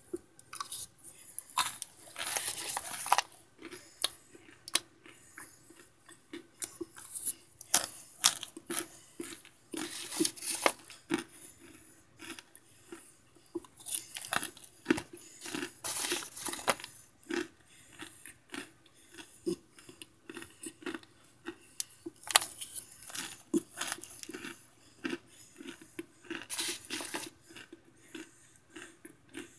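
Close-up crunching of microwaved Argo cornstarch chunks being chewed, in irregular bites with sharp crackles and brittle snaps.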